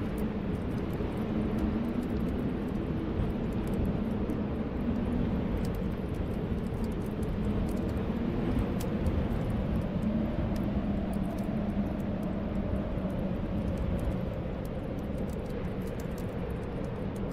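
Snowstorm wind howling steadily, with low whistling tones that slowly waver in pitch, and faint crackling from a wood fire in a fireplace.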